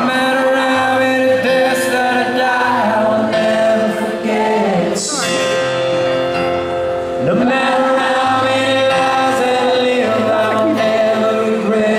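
Live acoustic rock song: a man singing long held notes over acoustic guitar.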